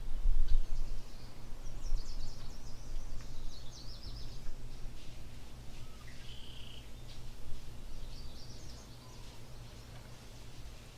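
Small birds chirping in short bursts over a steady low rumble, which is loudest in the first second.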